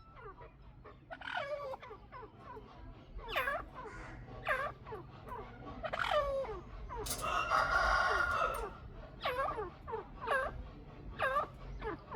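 A pair of chukar partridges calling with short, arched chuck notes, repeated irregularly about once a second. About seven seconds in, a longer, harsher call lasts a second and a half.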